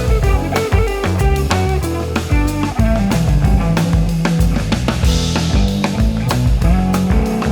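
Instrumental passage of a pop-rock band song: guitar, keyboards and synthesizers over a steady drum-kit beat and a strong bass line, with no singing.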